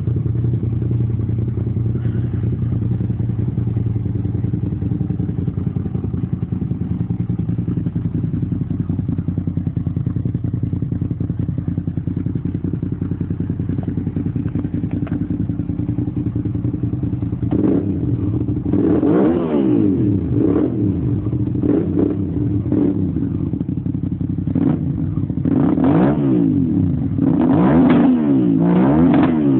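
2000 Suzuki SV650's 90-degree V-twin through an aftermarket Scorpion exhaust, idling with a steady, bassy note. Over the last third it is revved in a series of quick throttle blips, each rising and falling in pitch.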